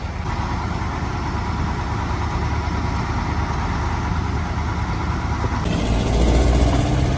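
A vehicle engine running steadily; about three-quarters of the way through the sound changes abruptly to a heavier, deeper rumble.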